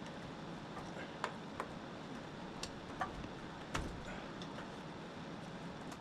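Scattered light clicks and knocks, about six of them in the first four seconds, from hand tools and parts being handled while a car's air intake is pulled out of the engine bay. A steady hiss runs underneath.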